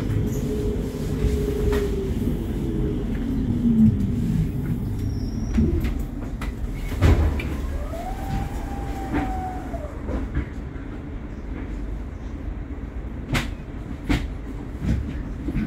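Rumble of a light-rail train heard from inside the passenger car, with a motor whine that falls in pitch over the first few seconds and another that rises and falls about eight seconds in. Several sharp clicks come near the end.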